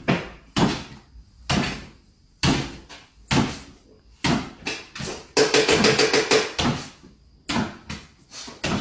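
Sharp knocks or bangs about once a second, with a quick rattling run of them in the middle that lasts about a second.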